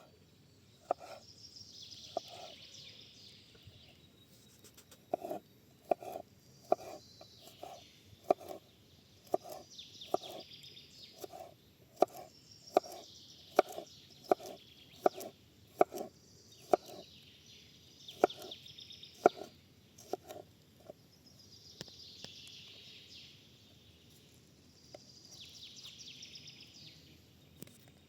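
A songbird repeating a short high phrase every couple of seconds. Over it, for much of the middle, comes a run of sharp knocks, about one or two a second.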